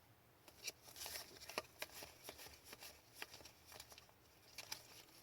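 Faint clicks and light slides of trading cards being handled and flipped through one after another.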